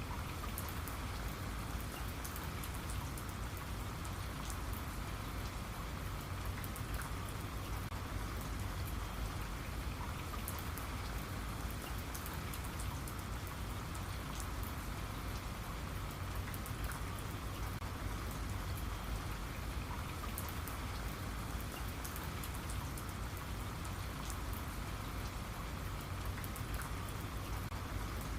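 Steady rain falling, with many small drops ticking on a surface over a constant wash of rainfall and a low rumble underneath.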